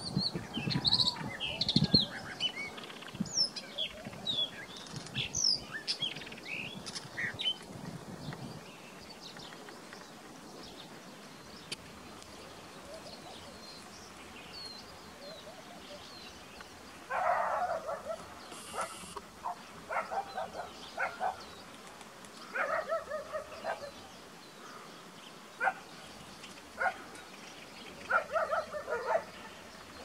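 Small birds chirping and whistling in quick, varied phrases for the first eight seconds or so, over low rumbling bumps. Later, from a little past halfway, harsh animal calls come in short bouts every few seconds.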